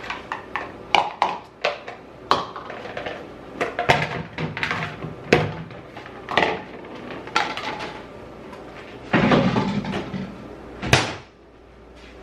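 Irregular knocks and clatter of kitchen food-prep work, hard objects set down and handled on the counter and cutting board. A louder rustling, scraping stretch comes about nine seconds in, then one sharp knock.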